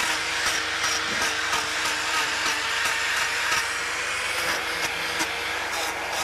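Angle grinder with a hoof-trimming disc running steadily against a cow's hoof, grinding the horn of the sole, with small ticks now and then.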